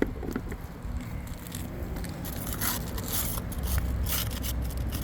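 Scraping and crackling of a three-tab asphalt shingle being pried up, its sealed-down tab tearing loose, with many short sharp scratches and clicks.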